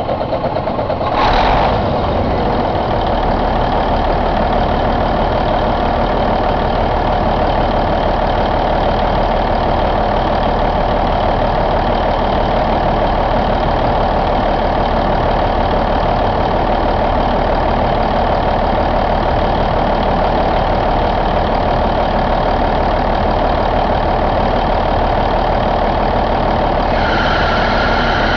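1993 Cummins N14 CELECT inline-six diesel engine idling steadily, with a brief surge about a second in. A higher steady whine joins near the end.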